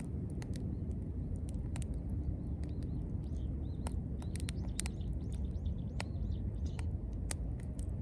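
Wood campfire crackling, with sharp irregular pops and snaps over a steady low rumble of the fire. Small birds chirp faintly in the middle.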